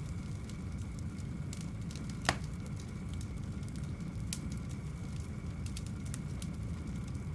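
Wood fire burning in an open brick fireplace firebox: a steady low rumble with scattered faint crackles and one sharp pop a little over two seconds in.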